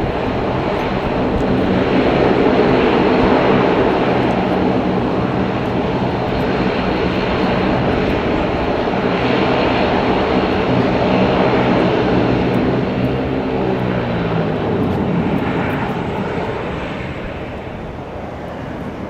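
Jet airliner's engines running loud and steady as the aircraft passes, the low hum dropping slightly in pitch and fading toward the end.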